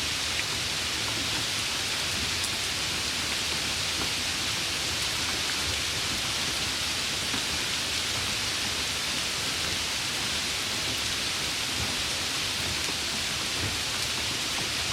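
Steady rain, falling evenly and unbroken, with an even hiss strongest in the upper range and faint scattered drop ticks.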